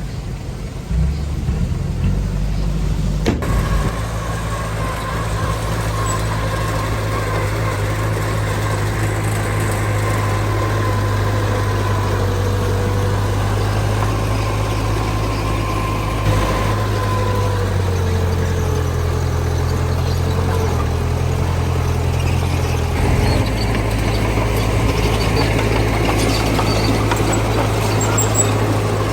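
Heavy diesel engine of earthmoving machinery running steadily, picking up about a second in. A thin whine rides over it, dips slightly in pitch and fades about two-thirds of the way through.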